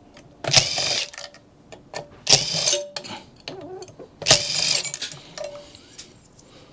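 Cordless drill run in three short bursts, about two seconds apart.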